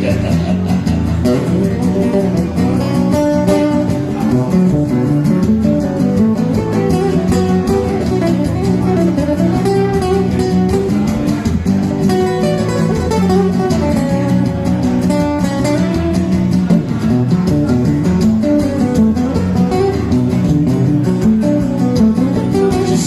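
Flamenco-style guitar music, plucked and strummed.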